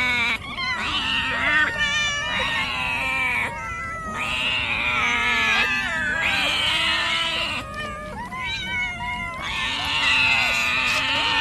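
Cats meowing and yowling almost without pause, several long calls overlapping and gliding up and down in pitch.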